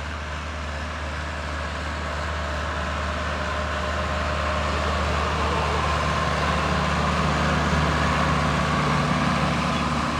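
Sonalika All Rounder DX55 tractor's diesel engine running steadily, getting gradually louder over the stretch.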